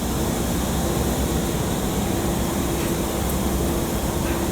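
Electric train running in the station, a steady rumble and hum with a held mid-pitched tone.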